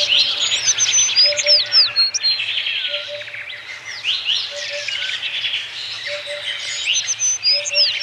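Birds chirping and twittering, many quick high calls and short trills overlapping throughout.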